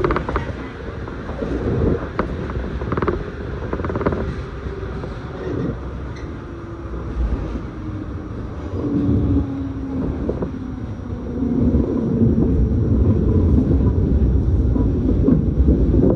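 Electric commuter train running, heard from inside the carriage: a steady low rumble of wheels on the rails, with a faint tone sliding down in pitch about halfway through and the noise growing louder near the end.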